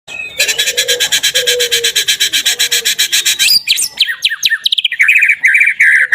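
Recorded songbird song played as a bait call for white-rumped shamas: a rapid, evenly pulsed buzzy trill for about three seconds, then a run of quick sweeping whistled notes, then clear repeated notes near the end.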